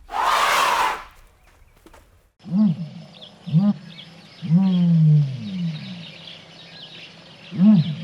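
A short hissing burst of noise, then after a break a series of short rising-and-falling animal calls, with one longer call about halfway through that falls in pitch.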